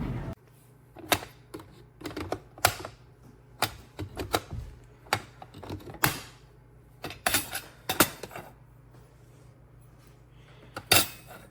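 A run of irregular sharp clicks and knocks, some in quick clusters, with the loudest pair near the end, over a faint steady low hum.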